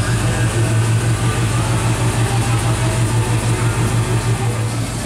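Chopped custom coupe's engine idling with a steady, pulsing low rumble as the car creeps forward at walking pace.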